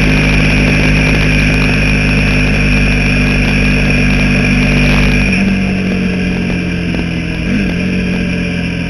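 Motorcycle engine running at steady revs, dropping to a lower, quieter note about five seconds in.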